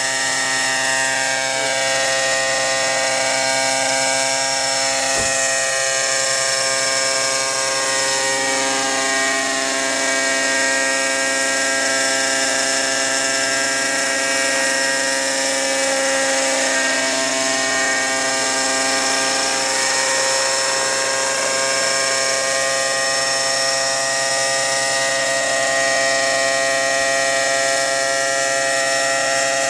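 Engine running steadily at idle through an aftermarket Fantec muffler, an even, unchanging buzz, with a single short click about five seconds in.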